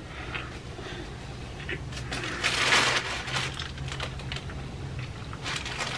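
Close-miked chewing of a sub sandwich: soft, wet mouth clicks, with a short rustle about two and a half seconds in.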